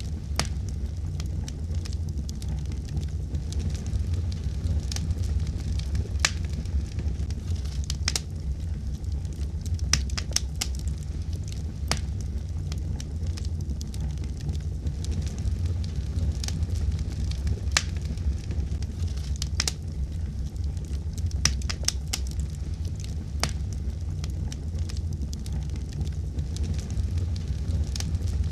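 Fire in a fireplace crackling steadily: irregular sharp pops and snaps over a continuous low rumble.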